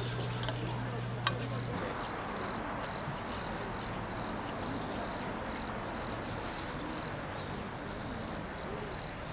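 A cricket chirping steadily at about two to three chirps a second, over a soft even hiss. A low hum cuts off about two seconds in.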